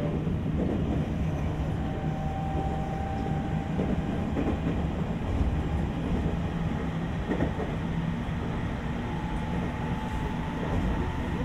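Running noise of a JR West 225 series 5000 subseries electric train heard from inside the passenger car while under way: steady rumble of wheels on rails, a faint steady whine at times, and a few knocks over rail joints.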